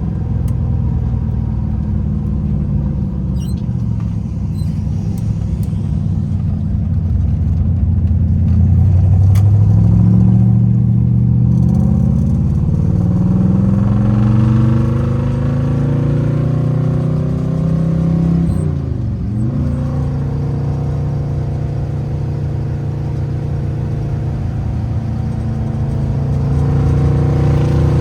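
1968 Camaro's 327 small-block V8 under way, running well after a dead-cylinder fix. The engine pitch climbs for several seconds as the car accelerates, dips sharply and recovers about two-thirds through, then holds steady.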